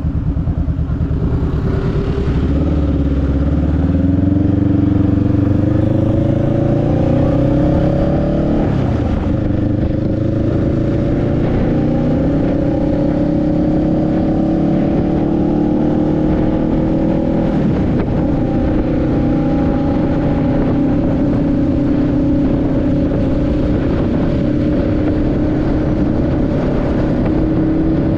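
Motorcycle engine under way, its pitch climbing steadily for several seconds as it accelerates, dropping briefly about nine seconds in, then holding an even cruising note with a slow rise, over a steady rush of wind and road noise.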